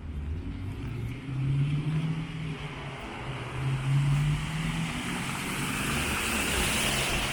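A motor vehicle passing on a wet city street: a low engine hum under a tyre hiss on the wet road that swells to its loudest near the end.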